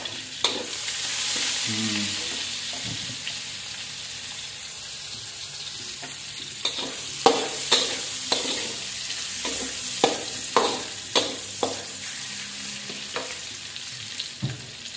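Sliced shallots sizzling in hot oil in a wok, with a steady hiss that swells a second or two in. In the second half, a metal spatula knocks and scrapes sharply against the pan several times as the shallots are stirred.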